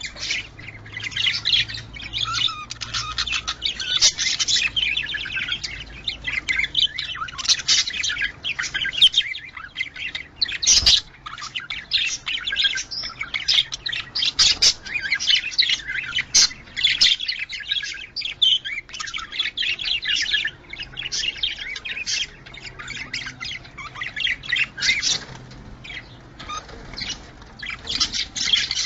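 Budgerigars chattering: a continuous dense stream of overlapping chirps, warbles and squawks, the excited chatter used to bring budgies into breeding condition. A single sharp knock sounds about eleven seconds in.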